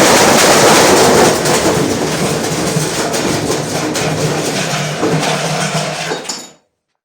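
LG washing machine running with a brick loose in the drum: a loud, continuous clattering rattle over a steady motor hum that cuts off suddenly about six and a half seconds in.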